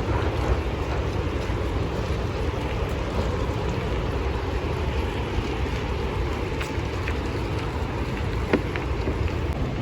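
Rhine Falls waterfall: a steady, loud rush of falling water, heaviest in the deep range, with one small click about eight and a half seconds in.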